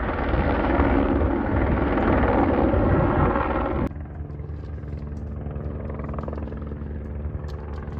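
Airbus Helicopters H125 flying low overhead, its single turbine and rotor loud and close. About four seconds in the sound cuts off abruptly to the same helicopter fainter and farther off, with a steady low hum.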